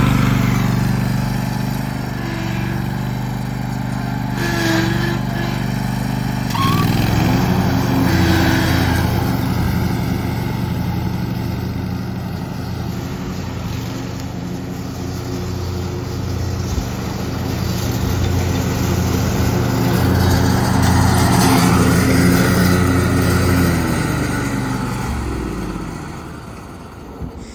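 Redmax 61-inch commercial zero-turn mower's engine running under load. The pitch shifts up about six seconds in. Near the end the engine slows and dies away as it is shut down.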